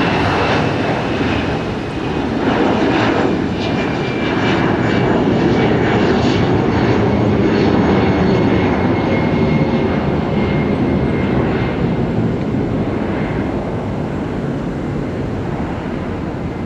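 Jet airliner's engines at takeoff thrust as it departs: a loud, steady rumble with a faint whine that slides slightly lower.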